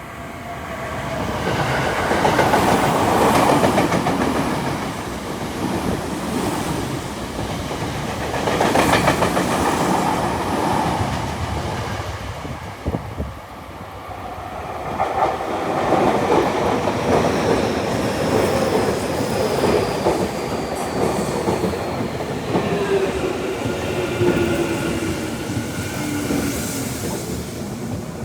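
A Tokyo Metro 10000 series electric train passes through the station at speed, its wheels clattering over the rail joints; about halfway through, a Yokohama Minatomirai Railway Y500 series train pulls in, its motor whine falling steadily in pitch as it brakes to a stop.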